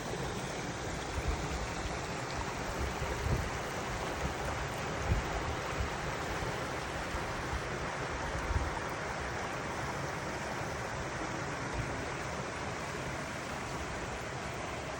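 Seven Falls waterfall rushing in a steady, unbroken wash of water noise, with a few short low bumps on the microphone in the first nine seconds.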